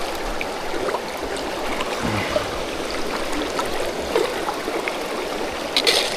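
Fast-flowing river water rushing steadily, with a short hiss near the end.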